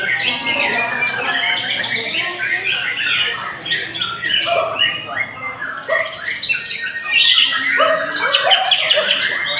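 Several white-rumped shamas (murai batu) singing at once, their rapid whistled phrases and harsh calls overlapping in a dense, unbroken tangle of song.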